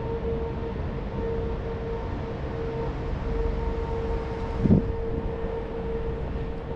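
A machine running steadily: a constant mid-pitched whine over a low rumble, with one short knock about two-thirds of the way through.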